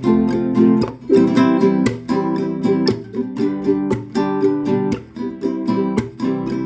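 Acoustic guitar strummed in a steady rhythm, playing a chord progression.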